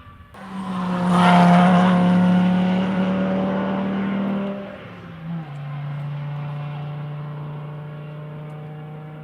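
Rally car engine at high revs passing on the track, starting abruptly, loudest about a second in. Its note drops to a lower pitch about five seconds in and then holds steady as it slowly fades.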